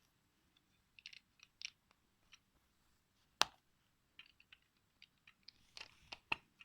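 Small plastic Lego parts clicking and rattling as the model is handled: scattered light ticks, with a sharp click about three and a half seconds in and two more near the end.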